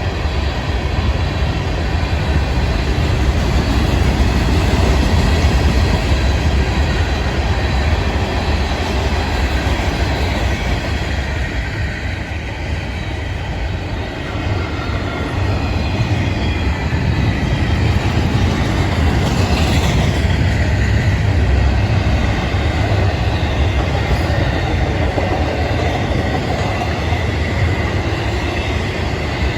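Freight train cars rolling past with a steady, loud rumble of steel wheels on rail, and a faint wheel squeal about two-thirds of the way through.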